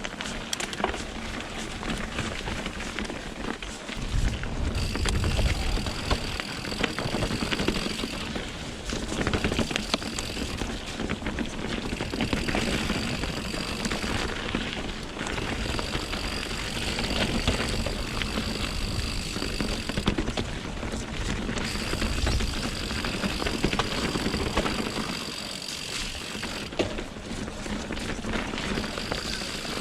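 Mountain bike on Pirelli Scorpion tyres riding rough, rocky trail: continuous tyre noise with frequent rattles and knocks. A high buzz comes and goes in stretches, and there are low wind rumbles on the microphone now and then.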